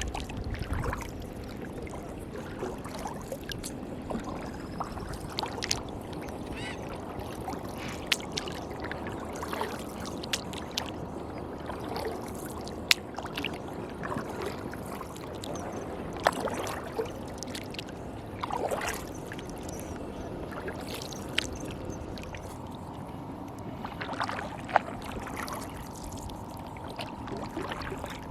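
Kayak paddling on a river: steady water sounds from the paddle strokes, with scattered sharp knocks.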